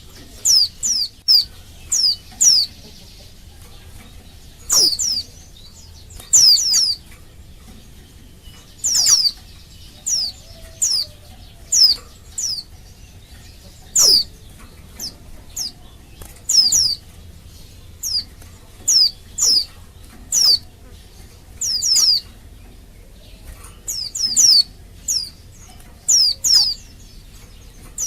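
Female white-eye (pleci) calling: short high chirps, each sliding quickly down in pitch, often in quick runs of two to four and repeated every second or two. This is the female's call to the males, the kind that sets male white-eyes answering.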